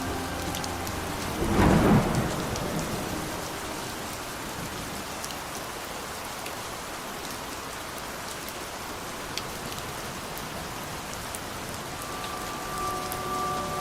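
Steady heavy rain with scattered sharp drop ticks, broken about a second and a half in by a single loud rumble of thunder that dies away within a second or so. Faint steady music tones come in near the end.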